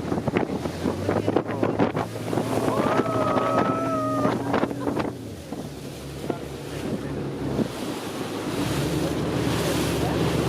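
A RIB's outboard motor running under way, with wind buffeting the microphone and water splashing and slapping against the hull. About eight and a half seconds in, the engine note changes and grows louder as the throttle opens.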